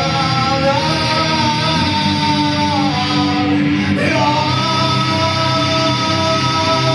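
Live rock band playing loud, guitars and drums under long held melody notes: one rises about a second in and holds for about two seconds, another starts about four seconds in and holds to the end.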